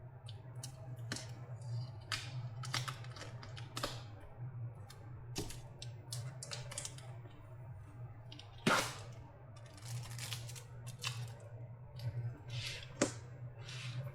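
Tape being peeled off a battery pack's casing: irregular clicks and short crackling tears, the loudest about two-thirds of the way through, over a steady low hum.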